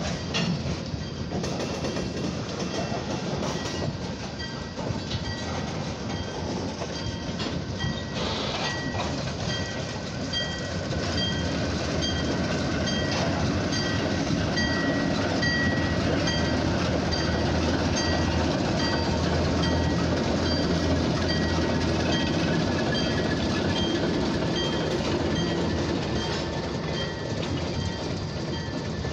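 A slow freight train of covered grain hopper cars rolling past, wheels clacking over the rail joints. A diesel switcher locomotive then passes, and its engine makes the sound louder and deeper through the middle. A bell rings repeatedly during this time.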